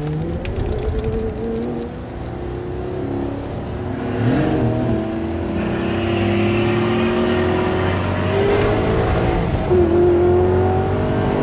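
Car engine accelerating through the gears, heard from inside a car cabin. Its pitch climbs steadily and drops back at each upshift, about four and eight seconds in and again near ten seconds, over steady tyre and road noise.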